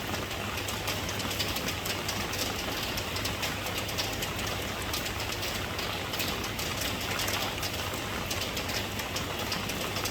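Steady rainfall: an even hiss of rain with many small, sharp drop ticks, unchanging throughout.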